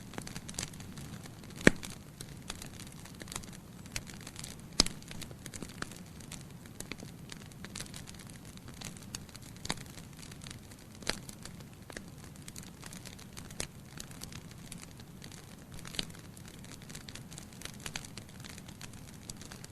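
Logs burning in a fireplace, crackling with irregular sharp pops over a steady low hiss of the flames; the two loudest pops come about two seconds and about five seconds in.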